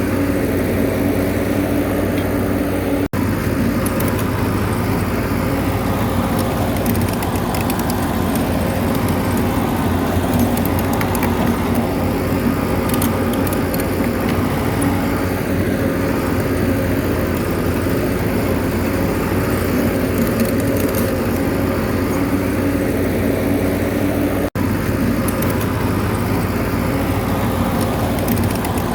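Bulldozer's diesel engine running steadily under load, with light clicks and clanks over it. The sound drops out very briefly twice, about three seconds in and near the end.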